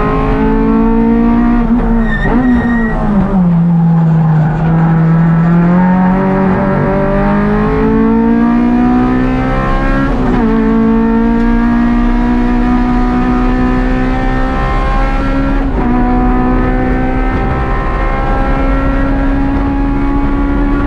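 K24 2.4-litre four-cylinder in a K-swapped Honda Civic hatchback, heard from inside the cabin at race pace. Its pitch falls under braking about two seconds in, then climbs under hard acceleration, with upshifts about ten and sixteen seconds in.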